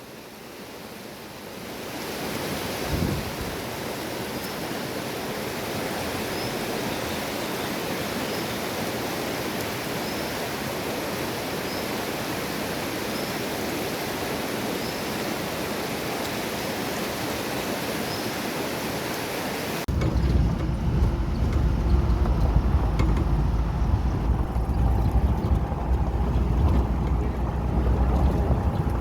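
Steady rush of a small river's flowing water, with faint high chirps repeating about once a second. About two-thirds of the way through it changes suddenly to a louder, uneven low rumble.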